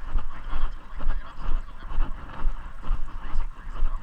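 Footsteps while walking, about two steps a second, each step a dull thump over a steady rustling hiss.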